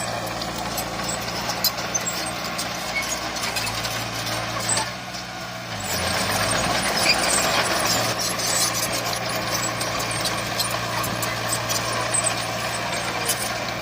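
Heavy diesel earthmoving machinery running steadily, with scattered metallic clanks and knocks. The engine dips about five seconds in, then picks up again.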